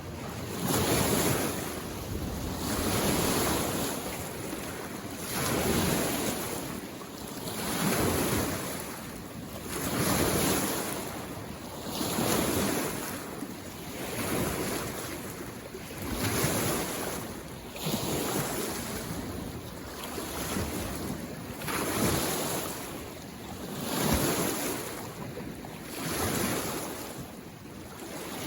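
Small waves on a mountain lake coming in and washing against the shore in a steady rhythm, one swell about every two seconds.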